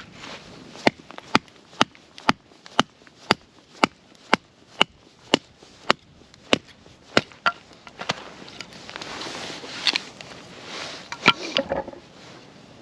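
Chopping: about a dozen sharp, evenly spaced knocks, roughly two a second, followed by a few seconds of rustling and a couple of louder knocks near the end.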